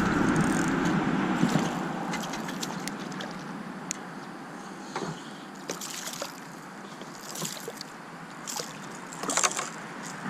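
Water sloshing against a kayak, louder for the first second or so and then quieter, with scattered light knocks and clicks from the boat and gear.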